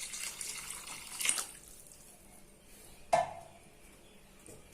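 Water being poured into a cooking pot, tailing off about a second and a half in, then a single sharp metallic clink with a brief ring, about three seconds in.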